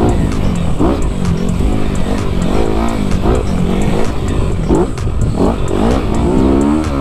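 Honda CRF250RX dirt bike's single-cylinder four-stroke engine running hard while riding, its pitch rising and falling repeatedly as the throttle is worked on and off.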